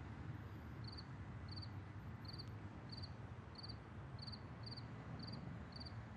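Crickets chirping faintly and steadily, short high chirps about two a second, over a low background hiss.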